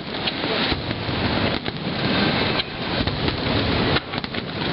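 Aerial firework shells bursting in rapid succession: a continuous rumble of overlapping explosions with sharper bangs every second or so, and a cluster of bangs near the end.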